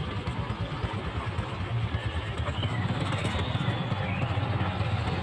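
Motorcycle engine running steadily at low speed, with a steady hiss over it.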